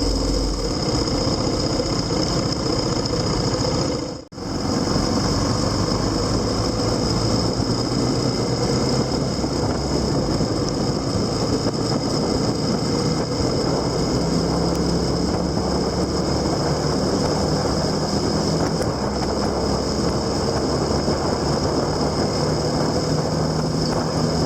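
Onboard sound of a vehicle on the move: a steady engine hum mixed with wind and road noise, with a deeper engine tone coming through from about halfway. The sound cuts out for a moment about four seconds in, then resumes.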